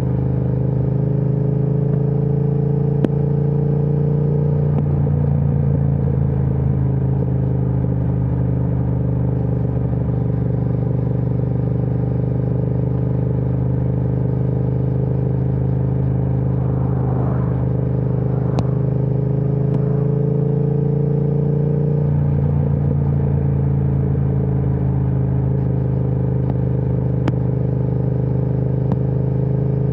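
Triumph Speed Twin 1200 parallel-twin engine running through an aftermarket Vance & Hines exhaust, steady at low revs while cruising, with the pitch rising gently twice as it picks up a little speed.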